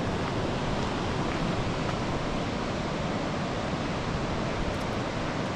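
Ocean surf, a steady, even rushing noise.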